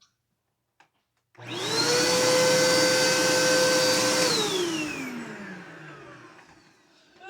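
Vacuum cleaner switched on about a second and a half in. Its motor whine rises quickly to a steady pitch over a loud rush of air. A few seconds later it is switched off, and the whine falls in pitch and fades as the motor spins down.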